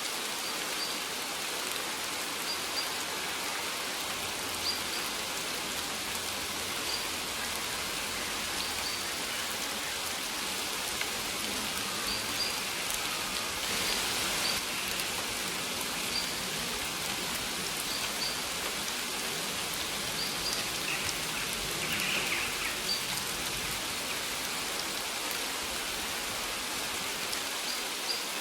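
Steady rain falling, with short, high bird chirps every couple of seconds.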